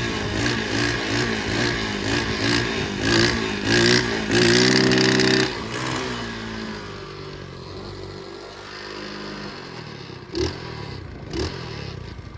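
125cc pit bike engine revving in quick pulses, then held high and steady for about a second, then throttle off with the pitch falling away to a low, quiet idle. Two short knocks come near the end.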